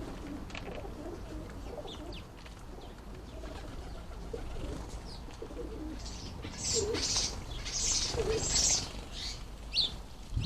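Garden birds calling at a bird bath: a run of short high-pitched chirps about six to nine seconds in, with a couple of low pigeon-like coos among them.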